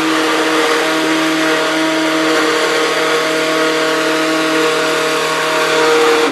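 Old electric countertop blender running steadily at full speed with a constant motor hum, blending a thick mix of avocado, mayonnaise, egg and oil, then switched off at the very end and quickly winding down.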